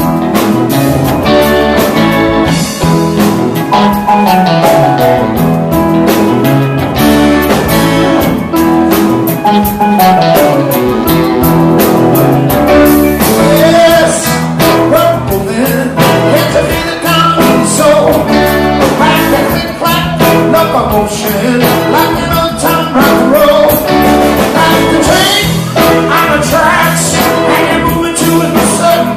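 Live band playing a blues-rock number, with guitar and drums over a bass line that steps up and down.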